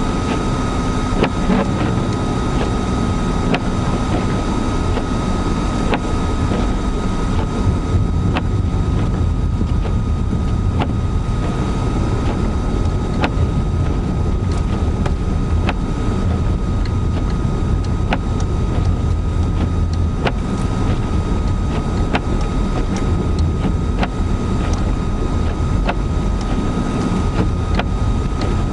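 Car cabin noise while driving through deep snow in a blizzard: a steady low rumble of engine, tyres and wind, with a thin steady whine and scattered sharp ticks.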